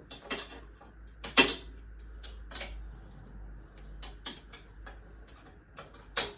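Irregular metallic clicks and knocks of a hand spanner or socket working on a bolt, the loudest about a second and a half in.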